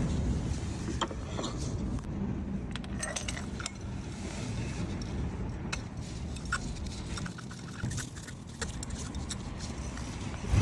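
Keys jangling, with scattered light clicks and clinks over a steady low rumble.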